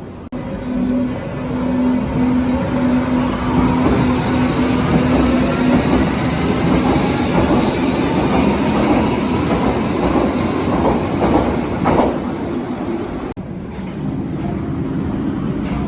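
Berlin U-Bahn large-profile train running on the track, its wheels clattering over the rails, with a steady electric hum in the first few seconds. The sound breaks off abruptly about two seconds before the end.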